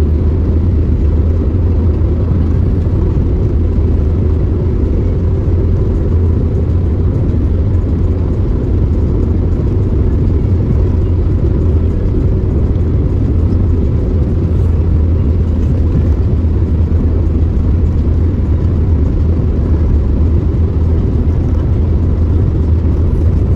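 Steady low rumble of a car driving along a road, heard from inside the vehicle.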